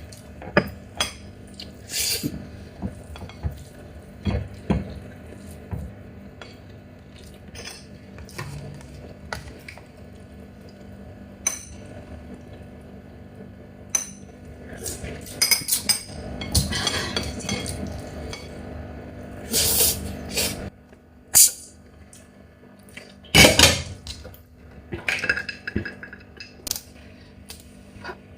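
Someone eating a Chinese mitten crab by hand: irregular sharp cracks and clicks of crab shell and of contact with the plate, with a few louder, longer crunching bursts.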